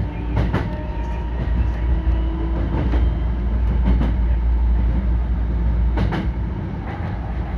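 Hankyu 9300-series electric train running on the rails: a steady low rumble with occasional clicks, some in close pairs, as the wheels pass over rail joints.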